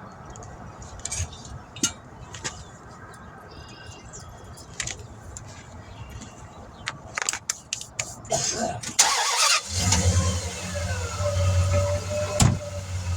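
Scattered metal clinks and knocks of equipment being handled, then about nine seconds in an engine starts with a loud burst and settles into a steady idle.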